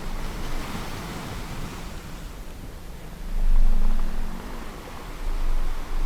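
Sea surf washing steadily, with two loud low swells of rumble in the second half. A faint low whale call, rising slightly, sounds under the surf in the middle.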